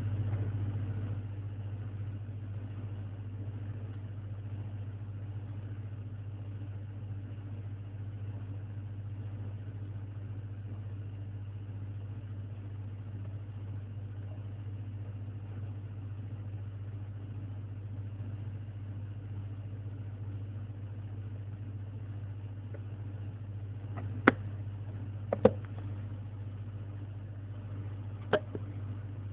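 Steady low hum with a faint hiss, and a few sharp clicks near the end.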